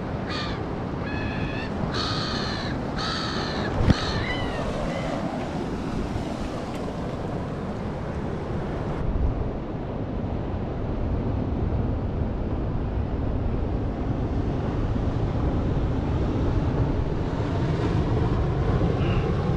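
A bird calling about five times in quick succession in the first few seconds, with harsh, downward-bending cries. Underneath, surf washing over the rocks and wind on the microphone run on steadily, with one sharp knock about four seconds in.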